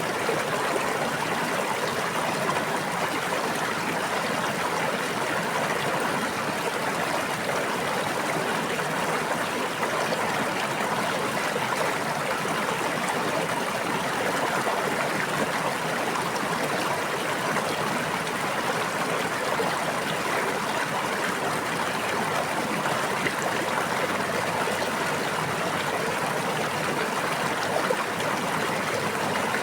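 Water running steadily over rocks in a stream, an even rushing babble with no changes.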